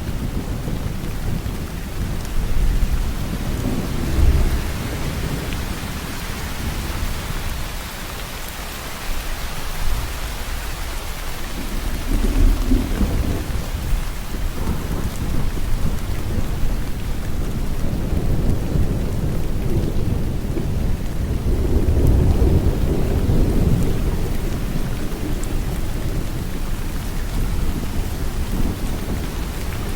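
Steady rain falling, with low rolls of thunder swelling and fading about three times.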